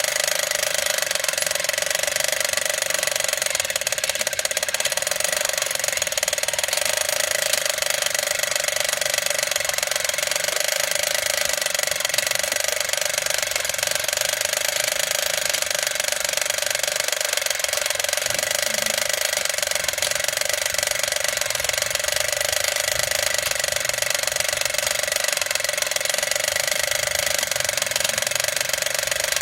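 Battery-operated toy motorcycle racing track set running: its small electric motor and plastic gears whirring steadily with a rattling, ratchet-like clatter.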